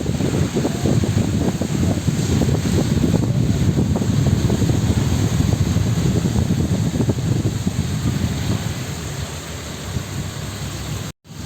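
Steady low rumble of a moving vehicle, with wind buffeting the microphone. It cuts out for a moment near the end.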